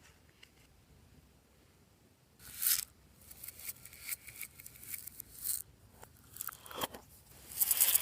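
Slime being squeezed and stretched by hand, giving irregular crackling and popping noises that start about two and a half seconds in, with the loudest bursts then and near the end.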